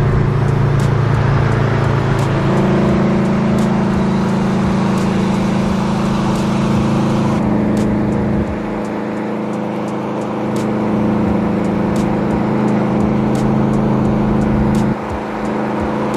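Car engine and exhaust running at a steady cruise, a loud drone that steps to a new pitch a few times and drops near the end.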